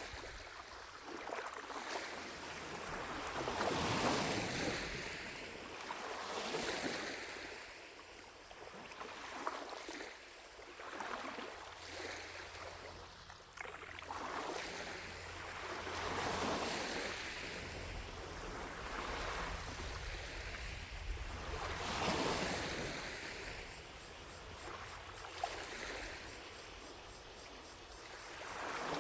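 Small lake waves lapping at the shore, each wash swelling and fading every two or three seconds. Distant cicadas buzz faintly in the background.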